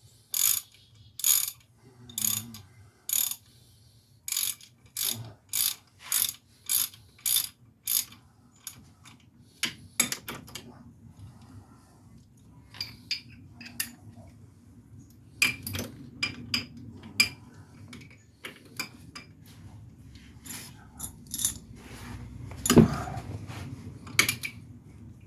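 Hand ratchet with a thin-wall socket turning the wheel bearing hub's mounting bolts, clicking in quick strokes at about two a second for the first eight seconds, then slower and irregular ratcheting with metal clinks. A single loud metallic clank comes about 23 seconds in.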